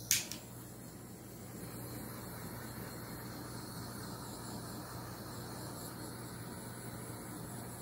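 A heat gun switched on with a click and then blowing hot air steadily across the wet acrylic pour.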